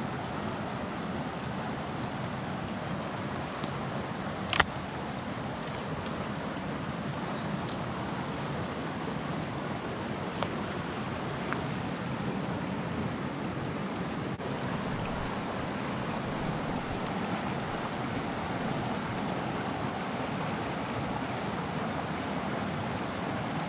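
Small mountain stream running steadily, a constant rush of water, with a few faint clicks and one sharper click about four and a half seconds in.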